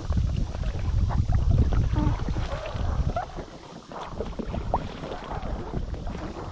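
Kayak paddle dipping and splashing in the water in irregular strokes, with wind rumbling on the microphone for about the first three seconds.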